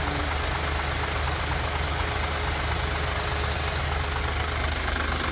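Truck engine idling steadily with a constant low hum.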